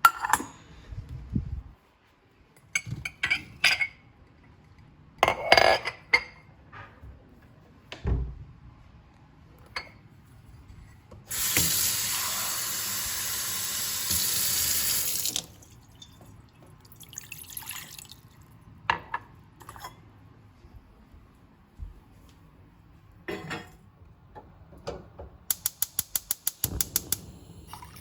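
Kitchen sounds of tea being made: scattered clinks and knocks of pots and utensils, a tap running for about four seconds as water is drawn, then a fast run of clicks near the end.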